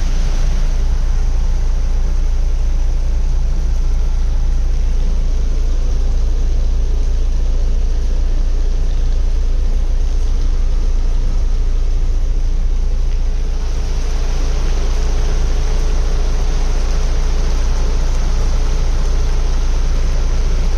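Heavy rain pouring steadily, a dense hiss over a deep low rumble. The hiss grows a little brighter about two-thirds of the way in, and a faint steady hum comes in alongside it.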